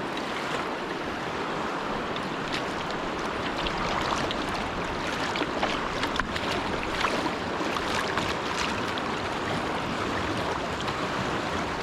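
River water rushing and splashing around a kayak on class II water, a steady wash with many small sharp splashes through it.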